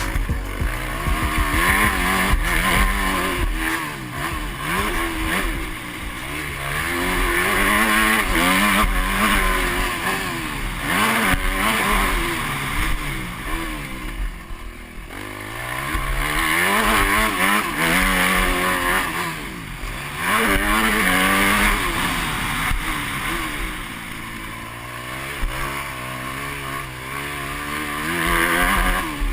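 Motocross dirt bike engine revving up and down as it rides the track, its pitch rising and falling every few seconds with brief drops off the throttle. Wind buffets the on-board camera's microphone.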